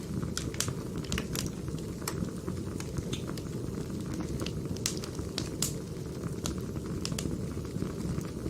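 Wood fire burning: a steady low rush with frequent sharp crackles and pops at irregular intervals from the burning logs.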